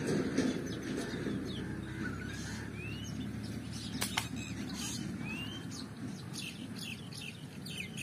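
Small birds chirping in the trees, with several short rising chirps among many quick high notes, over a steady low rumble. A single sharp click about four seconds in.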